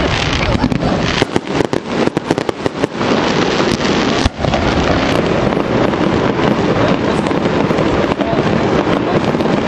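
Aerial fireworks going off: a quick run of sharp cracks and pops in the first few seconds, over a steady loud din of bursts.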